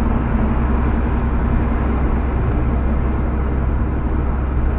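Steady road and engine noise of a moving car, heard from inside the cabin: an even rumble and hum with no sudden events.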